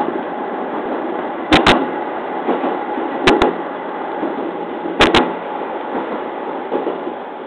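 JR East 209 series electric train running steadily on jointed track, heard from the cab. Its wheels click over rail joints three times, each a quick double click about 1.7 s apart.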